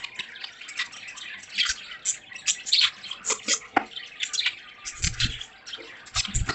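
A flock of budgerigars in a cage chirping and chattering in quick, overlapping short chirps, with a couple of low thumps near the end.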